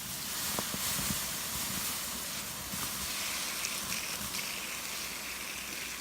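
Campfire hissing steadily, with a few sharp crackles in the first second.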